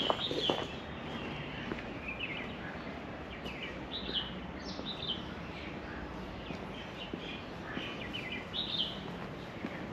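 Birds chirping, with short calls scattered throughout over a steady outdoor background hum.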